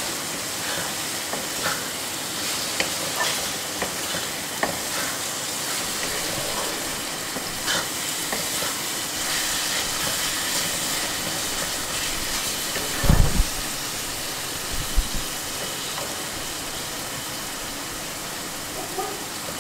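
Onion and spice masala sizzling in oil in a black kadai while a slotted spatula stirs and scrapes it, with scattered light clicks of the spatula on the pan. This is the stage of frying the masala base. About two-thirds of the way through there are a few dull low thumps.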